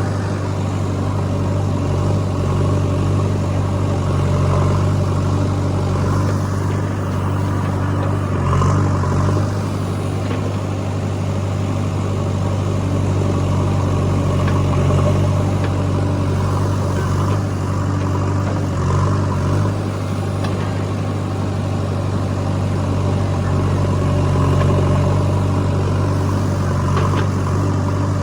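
Diesel engines of a JCB 3DX backhoe loader and a tractor running steadily, swelling slightly every few seconds, with a few faint knocks.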